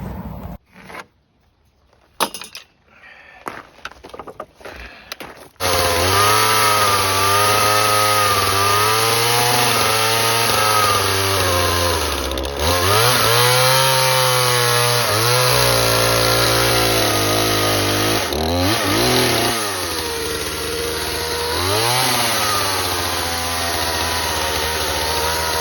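Gas chainsaw running and cutting green rough-sawn lumber, its engine pitch sagging and picking back up again and again as it works the cut. It starts abruptly about five seconds in, after a few faint knocks.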